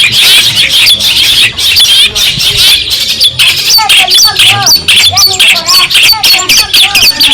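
Long-tailed shrike (cendet) singing a loud, rapid, unbroken stream of harsh chattering notes mixed with short whistled slurs.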